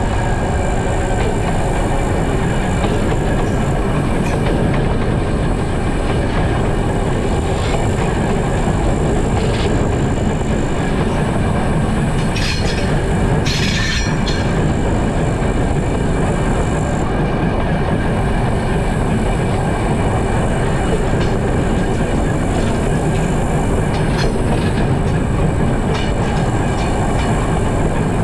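TEM2 diesel shunting locomotive hauling a train of open freight wagons: a steady rumble of engine and wheels, with clacking over rail joints and a brief high squeal about halfway through.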